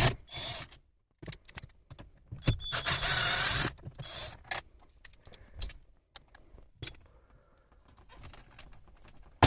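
8 mm bolts being undone on a car's dashboard air-duct mounting: a small power tool whirring in short runs, the longest about three seconds in, among clicks and knocks of the tool and plastic trim.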